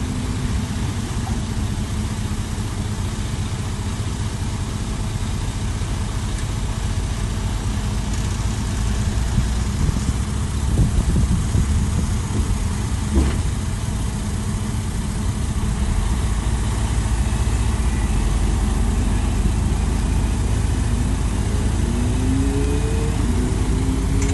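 Heavy diesel engine of earthmoving machinery running steadily, with a couple of sharp knocks a little past halfway. In the last few seconds it revs up, its pitch rising.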